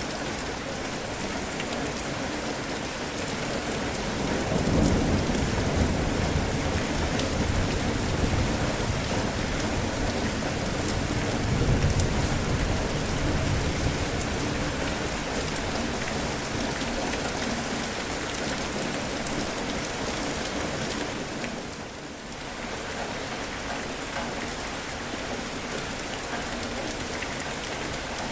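Steady rain falling, with two low rumbles swelling up about five and twelve seconds in, and a brief dip in the rain's level a little past twenty seconds.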